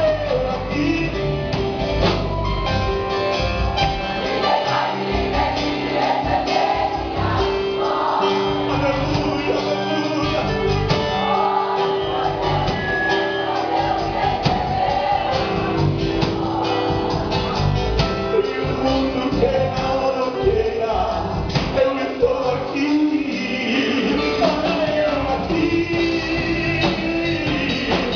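Live gospel rock band playing, with sung vocals over guitars and drums.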